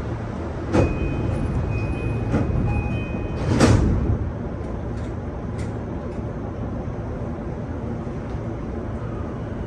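Inside a stationary E233-2000 series electric train: a steady low hum of its onboard equipment, with a thin high tone held for about two seconds and three sharp knocks in the first four seconds, the loudest about three and a half seconds in with a hiss, as the doors close before departure.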